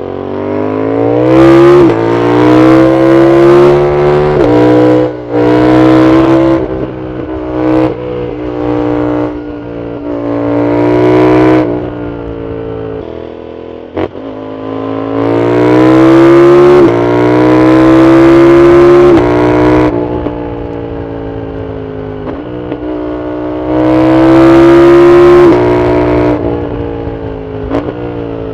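Yamaha MT-07's 689 cc parallel-twin engine through a full Arrow exhaust, accelerating hard up through the gears in several runs. The pitch climbs and drops sharply at each upshift, with quieter stretches off the throttle between runs and a single sharp click about halfway.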